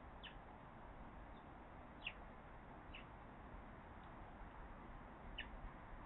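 A small wild bird calling faintly: about four short, high notes that slide downward, a second or two apart, over a faint background hiss.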